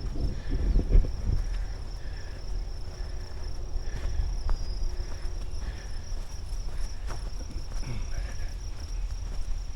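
Insects trilling steadily on one high pitch in a forest, with faint short calls around it. Low thumps come from walking on the trail, strongest in the first second or so.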